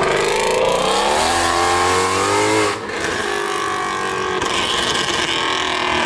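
A car accelerating hard at full throttle: the engine pitch climbs for nearly three seconds, dips briefly at a gear change, then pulls on in the next gear.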